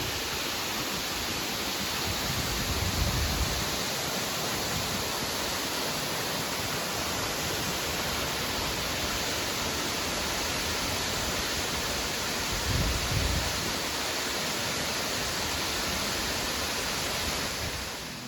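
Waterfall rushing with a steady, even roar. Low rumbling swells of wind on the microphone come about three seconds in and again near thirteen seconds.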